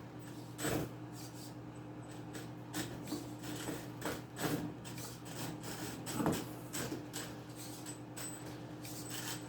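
Venom Mini Giant electric RC monster truck driving over cardboard boxes: a handful of short bursts of motor whir and tyre scuffing with knocks on the cardboard, over a steady low hum.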